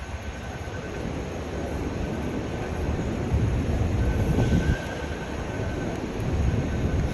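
A heavy vehicle passing with a low rumble that swells about three seconds in, and a faint thin whine near the middle.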